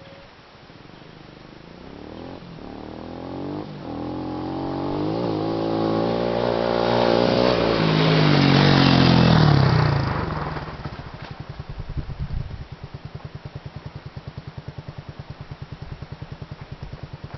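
A 125 cc motocross motorcycle approaching at full throttle, its engine revving up through several gear changes and getting louder, then dropping in pitch and fading as it passes by. After it has passed, a steady low rapid pulsing continues.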